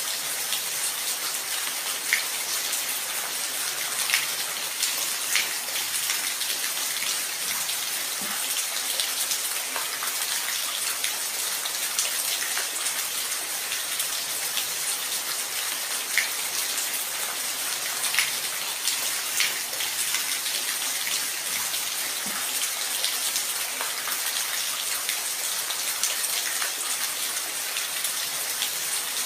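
Steady rain with a dense high hiss, dotted with the sharper ticks of single drops hitting a surface every second or so.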